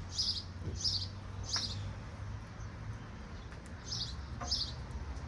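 A bird chirping over and over, one short high call about every half second, pausing in the middle and starting again near the end, over a steady low hum and a few faint tool clicks.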